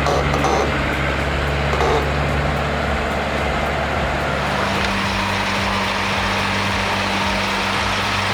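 Heavy-haulage truck's diesel engine running steadily, its low note shifting slightly about halfway through.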